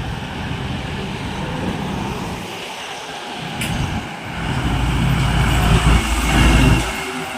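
Truck engine and tyres passing on a highway, with a low rumble that builds to its loudest around five to six seconds in and then drops away.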